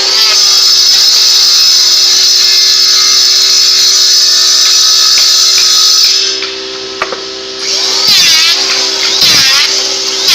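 Electric power tool motor running steadily with a high whine. It eases off about six seconds in, then picks up again as it works the wood.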